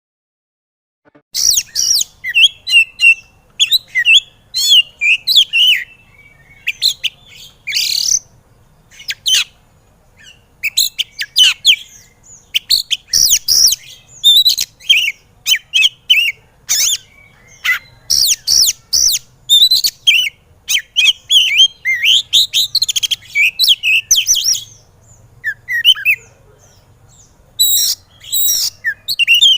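Oriental magpie-robin (kacer) singing a fast, fired-up song of varied whistles and harsh chirps with quick pitch sweeps, in rapid bursts with short pauses, starting a moment in. This agitated 'emosi' singing is the kind used as a master recording to rouse caged kacer into song.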